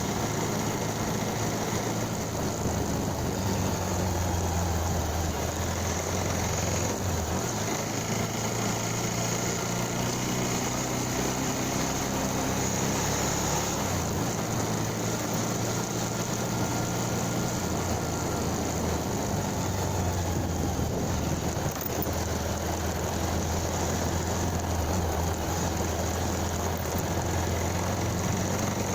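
Motorcycle engine running steadily, its low drone shifting in pitch and strength a few times, under a constant hiss.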